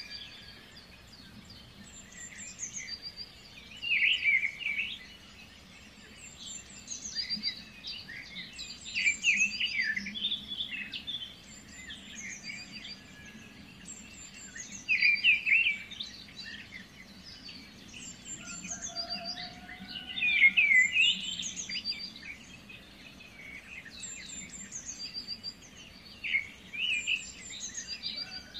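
Small birds chirping and singing, with louder clusters of song every few seconds over a faint low hum.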